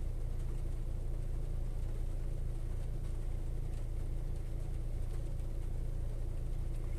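Hyundai car's engine idling at a standstill, heard from inside the cabin: a steady low hum with an even pulse. The engine is still warming up.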